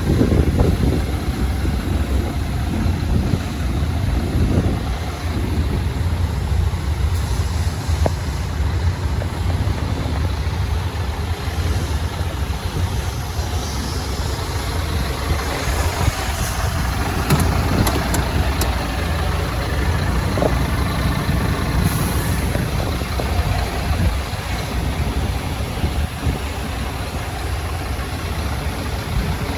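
Scania R480 lorry's 13-litre straight-six diesel idling steadily, with a few light clicks about two-thirds of the way through.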